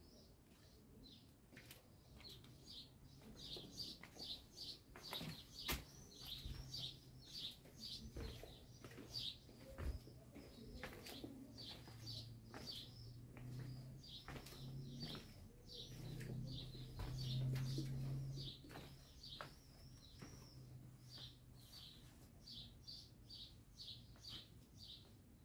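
A small bird chirping over and over, about three short chirps a second, with scattered footsteps on stone paving and a faint low hum in the middle.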